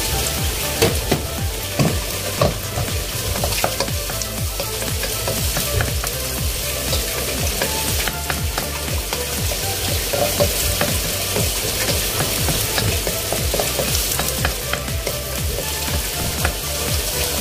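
Chopped garlic sizzling in hot oil in a wok, with a wooden spoon stirring and scraping against the pan. A steady hiss with scattered clicks, and a few sharper knocks in the first three seconds.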